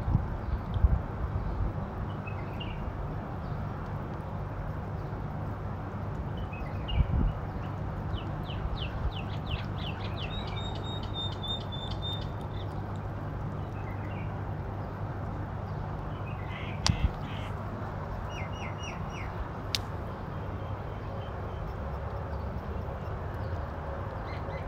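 Small birds chirping in short runs of quick, high notes over a steady low rumble, with a couple of dull knocks.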